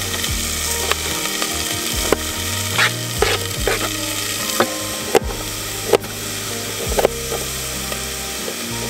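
Chicken sizzling in a pan on a butane camp stove, a steady hiss, with irregular sharp taps of a kitchen knife chopping bell pepper and carrot on a plastic cutting board.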